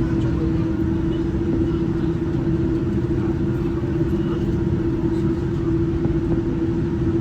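Cabin noise inside a Boeing 787-9 airliner while it taxis: a steady low rumble with a constant hum.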